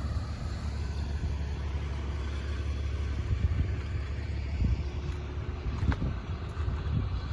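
Car crusher running with a steady low rumble while it crushes a pickup truck, with a few faint knocks in the second half.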